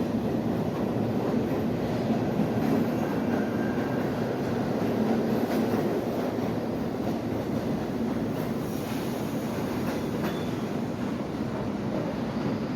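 New York City subway R68 cars running on the track: a steady, continuous noise of wheels on rails.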